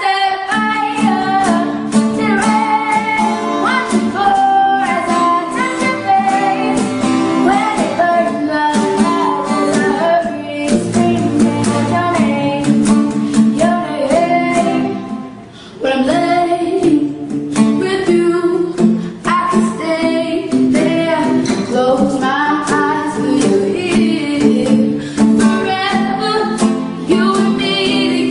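A woman singing a ballad over guitar and other instruments. The music drops briefly in level about halfway through, then carries on.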